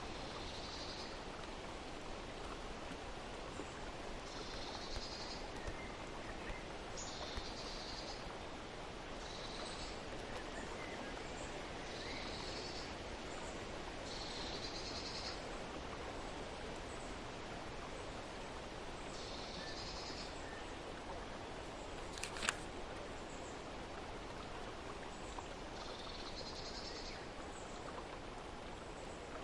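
Outdoor nature ambience: a steady wash of noise with a bird calling every two to three seconds in short, high phrases. One sharp click about twenty-two seconds in.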